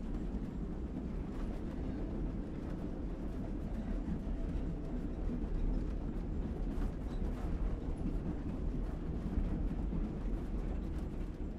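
Train rolling along the track: a steady low rumble with scattered clicks and knocks.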